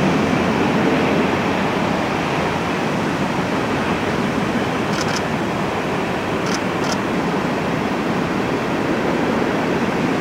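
Union Pacific freight cars rolling across a tall steel trestle bridge: a steady rumble, with a few faint high clicks about halfway through.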